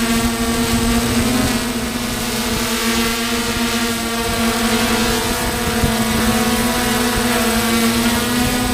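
DJI F550 hexacopter's electric motors and propellers running steadily, a constant droning whine with many overtones that hardly change in pitch.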